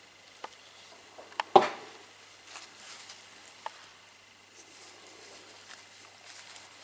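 A few sharp clicks and one louder knock about one and a half seconds in, followed by light rustling and scraping, like small hard objects being handled.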